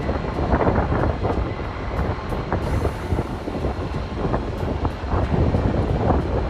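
Strong wind buffeting an outdoor microphone: a loud, steady rumble with irregular crackles.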